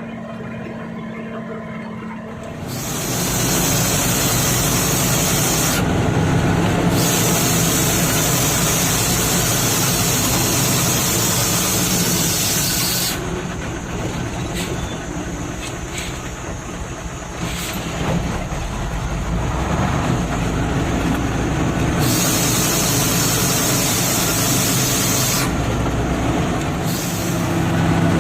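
Nissan TZA 520 dump truck's diesel engine running while driving, getting louder about two and a half seconds in. A loud hiss comes and goes several times over the engine.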